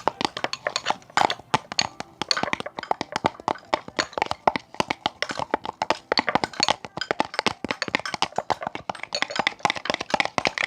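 Homemade slime being worked, giving a dense, irregular run of crackling clicks and pops, many a second.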